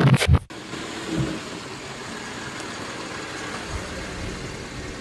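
BMW 325i E93 convertible's straight-six, fitted with a custom Force79 exhaust, idling steadily, after a short loud burst at the very start.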